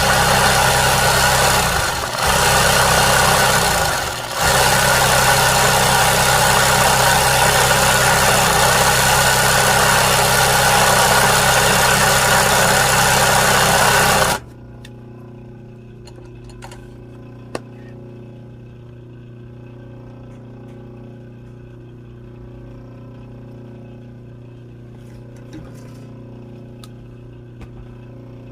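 A small electric motor running with a loud, steady whir and a low hum, faltering briefly twice early on and cutting off suddenly about halfway through, followed by a few faint clicks.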